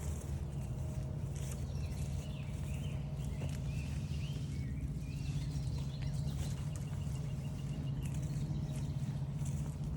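Songbirds calling in a forest, with several short chirps and whistles in the middle and an even rapid trill a little later, over a steady low hum and the soft, irregular sound of footsteps on a trail.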